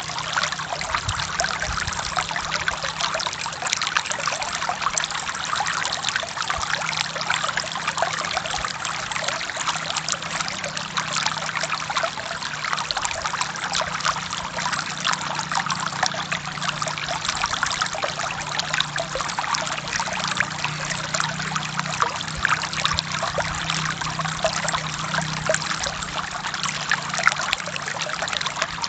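A forest stream flowing steadily over rocks, water burbling and splashing with a low steady rush underneath.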